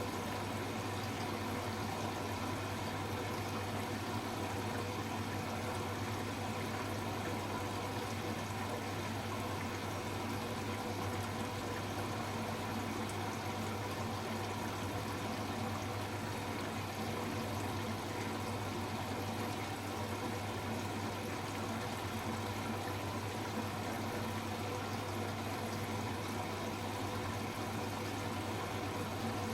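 Hoover H-Wash 300 Plus washing machine during its rinse: water running in the machine over a steady low hum.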